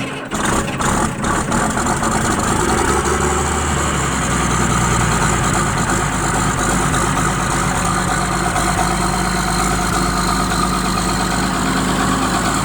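Case IH 5140 Maxxum tractor's Cummins 5.9-litre diesel cold-starting in freezing weather: it cranks briefly, catches within about a second and settles into a steady idle.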